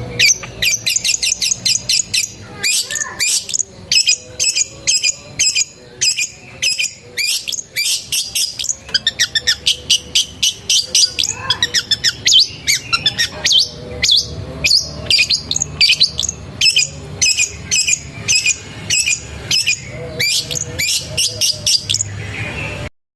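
Long-tailed shrike (pentet) singing a fast, varied song of rapid chirps and trills, with phrases mimicking a canary's song. It cuts off suddenly near the end.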